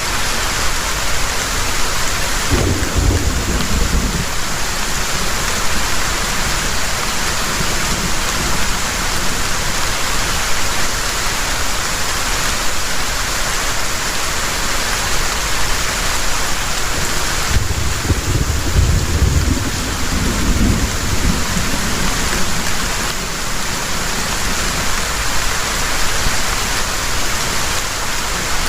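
Heavy rain pouring steadily, with two low rumbles of thunder: a short one a few seconds in and a longer one about two-thirds of the way through.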